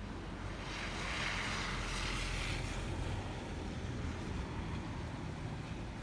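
Wind in a snowstorm rumbling steadily on the microphone, with a hissing gust that swells about a second in and dies away by about three seconds.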